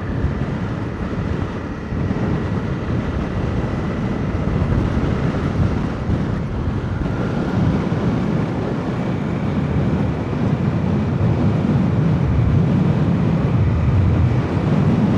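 Motorcycle engine running steadily while riding along a dirt track, with a continuous low rumble of engine and tyres.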